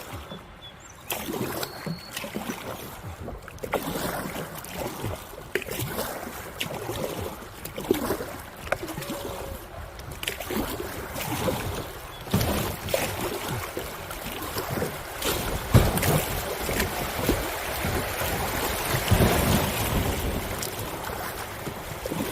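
Kayak running a river rapid: rushing, splashing whitewater with irregular knocks and slaps against the boat. It builds to its loudest in the second half, with wind on the microphone.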